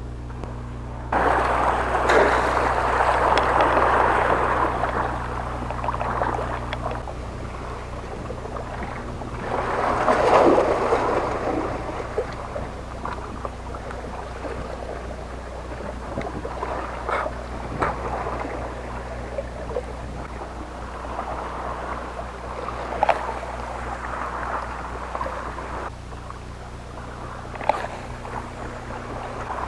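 A boat's engine hums steadily under two longer washes of sea water against the hull, the first just after the start and the second about ten seconds in. A few sharp knocks come in the second half.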